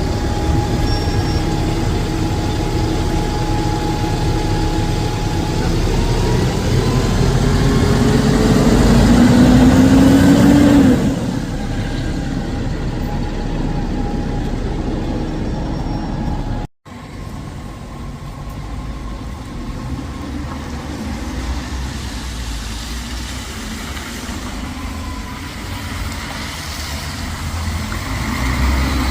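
Bus engine and road traffic. The engine's pitch climbs as it accelerates from about six seconds in and is loudest around ten seconds, then falls away abruptly. After a brief cut-out of the sound a little past halfway, steadier engine and traffic noise carries on.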